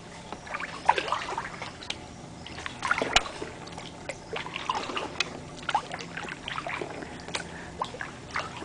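Kayak paddle strokes in shallow water: water trickling and dripping off the blades, with small irregular splashes and light knocks.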